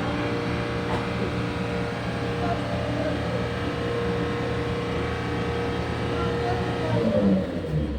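Mitsubishi Rosa bus diesel engine running at a steady idle during an engine inspection, its note shifting briefly near the end.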